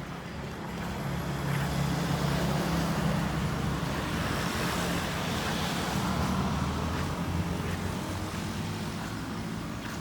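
Road traffic on a busy highway: a vehicle's engine and tyre noise swell up about a second in, hold, then fade near the end, over a steady low engine hum.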